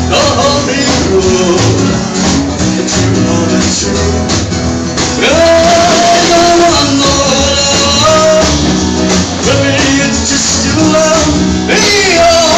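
A singer performing a song live with a small band, a steady strummed accompaniment under long held, wavering notes.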